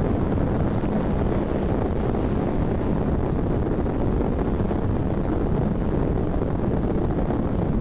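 Steady wind noise rushing over the microphone of a bike-mounted action camera while riding.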